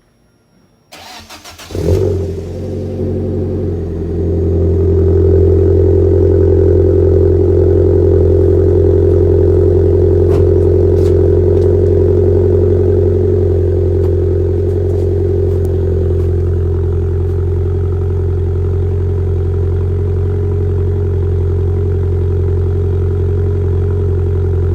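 Fiat Bravo's 1.4 T-Jet turbocharged four-cylinder petrol engine, breathing through a Powerflow custom exhaust, cold-started. The starter cranks for about a second, the engine catches with a brief flare about two seconds in, then settles into a steady cold-start idle that rises a little around five seconds in and eases slightly later on.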